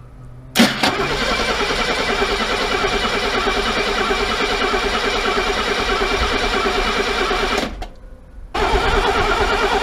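Mercedes W114 engine being cranked over on the starter in two goes, a long crank of about seven seconds then a short one after a brief pause, with an even pulsing beat and no sign of catching: fuel is not yet reaching the engine.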